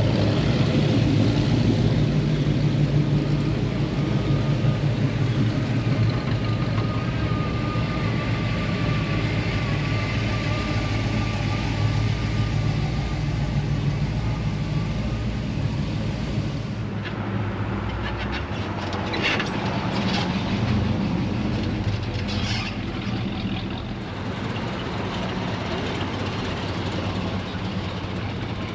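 Truck engines running with a steady low hum, a little quieter in the second half.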